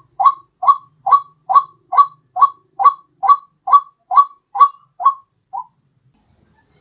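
White-breasted waterhen (ruak-ruak) call repeated as a bird lure: a rapid series of about a dozen identical short notes, roughly two a second. The last note is weaker, and the series stops about two-thirds of the way through.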